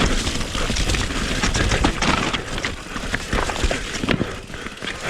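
Bird Aether 7 mountain bike descending a rough trail at speed: tyres rolling over dirt and rocks with a continual clatter of sharp knocks from the bike, over a low rush of wind on the helmet-mounted microphone.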